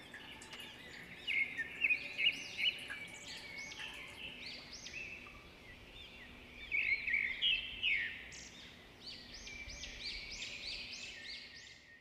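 Small birds chirping: a quick, overlapping run of short, arching chirps, loudest in two clusters, about a second in and again around seven seconds.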